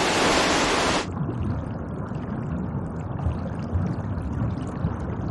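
Silt-laden river water rushing, a loud even hiss that cuts off suddenly about a second in, giving way to a muffled low underwater rumble.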